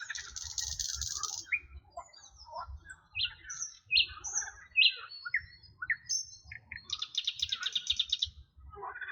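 Several songbirds singing, with many short rising and falling chirps and two fast buzzy trills, one at the start and one about seven seconds in.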